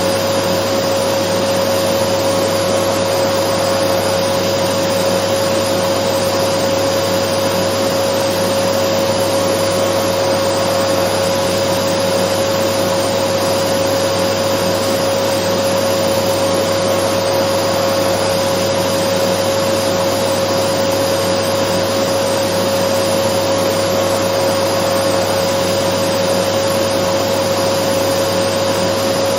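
Dyson vacuum cleaner running continuously: an even rush of air with a steady pitched whine and a low hum, unchanging throughout.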